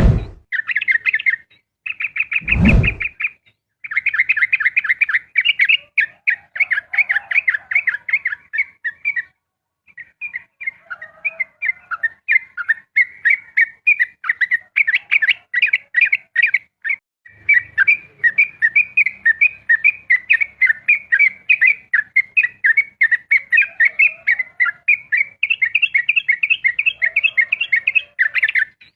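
Yellow-vented bulbul (trucukan) singing a long, fast 'ropel' song of quick chattering notes, broken only by short pauses. A single loud thump about two and a half seconds in.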